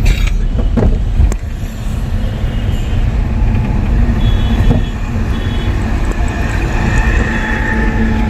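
Car engine and road rumble heard from inside the cabin while the car is being driven, a steady low rumble with a faint hum.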